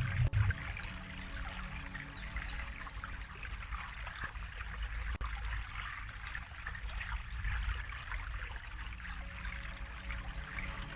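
Water trickling and babbling in a small stream, a steady flow of fine splashes with a low rumble beneath.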